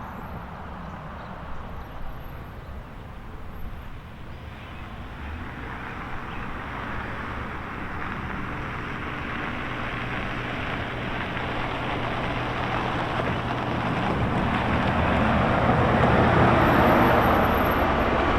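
A motor vehicle running, its noise growing steadily louder.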